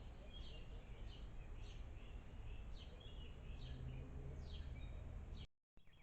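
A bird calling over and over, short downward-sliding chirps about two a second, over a steady low background rumble. The sound cuts out suddenly near the end.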